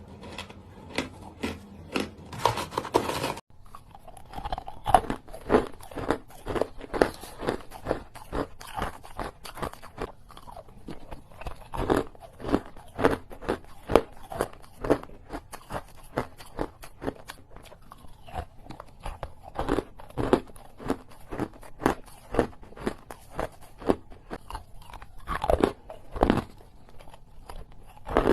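Hard ice being bitten and chewed close up, a steady run of sharp crunches about two or three a second, with a denser grinding crunch a few seconds in.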